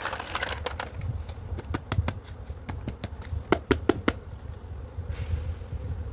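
Small plastic toy pieces clicking and tapping as they are handled, in two quick runs of sharp clicks, with rustling near the start and again near the end.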